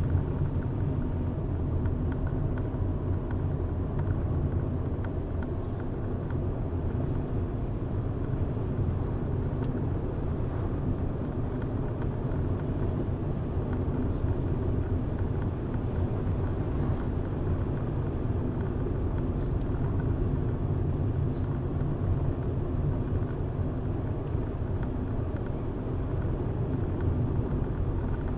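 Car driving at steady speed: a constant low rumble of engine and tyre noise on the road.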